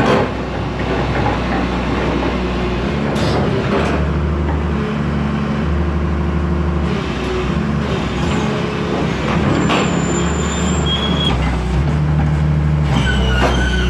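Heavy diesel engine running steadily, its note shifting several times, with a few short high squeals and knocks in the second half.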